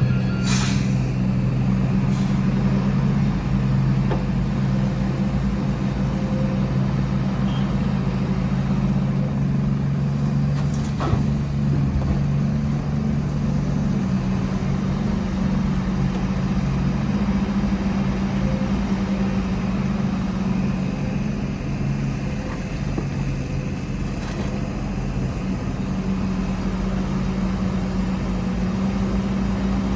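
Heavy diesel engine of earthmoving machinery running steadily at an even pitch, with no rise or fall in engine speed.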